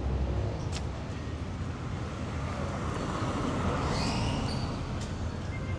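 City street traffic: a steady low rumble of road vehicles, swelling as one passes about three to four seconds in, with a short high squeak around that moment.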